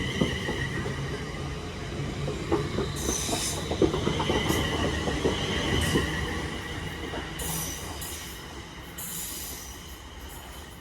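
Class 350 electric multiple unit pulling out of the station. Its wheels knock over the rail joints and squeal briefly in short high bursts, with a steady whine, and the sound fades as the train moves away.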